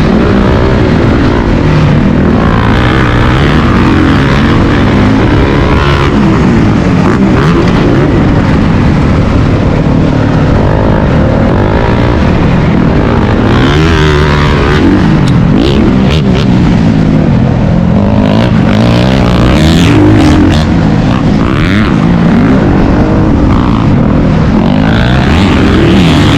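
Dirt bike engine being ridden hard on a motocross track, loud throughout, its revs rising and falling again and again.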